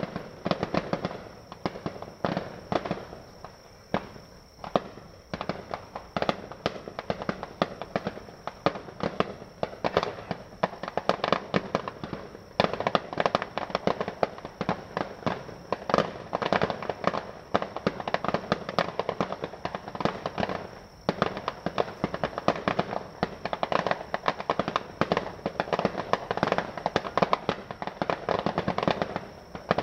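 Fireworks going off in a dense, continuous crackle of rapid pops and cracks that swells and eases in waves, thinning briefly a few times.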